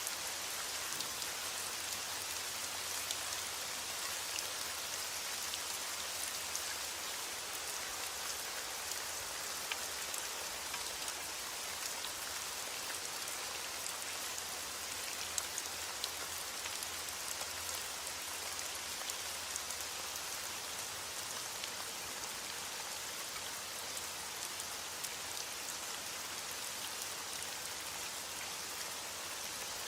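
Steady rain falling on a surface: an even hiss with many fine drop ticks, a few louder drops standing out here and there.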